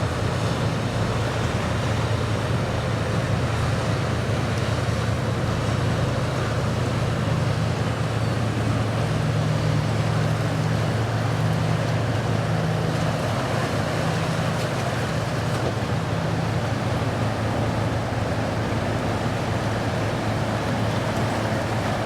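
Boat engines running with a steady low drone, over a hiss of water and wind.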